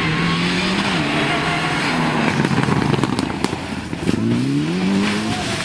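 Rally car engine revving hard as it passes on the stage, its pitch rising steeply about four seconds in, with crackling from the exhaust.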